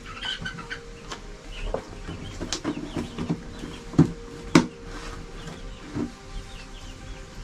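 Chickens clucking with short calls, and two sharp knocks about two-thirds of the way through.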